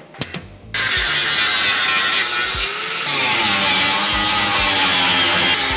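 Angle grinder running under load on steel car bodywork, starting abruptly about a second in, its pitch wavering as it bears on the metal, with a brief easing of load near the middle.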